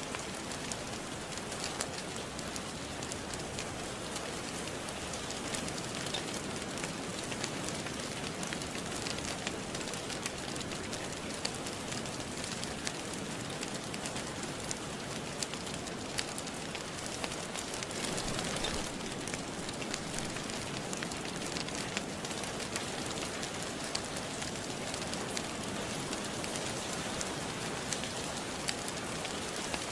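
Steady rain falling, a dense even hiss, mixed with a fireplace crackling in scattered sharp pops. The rain swells slightly about two-thirds of the way through.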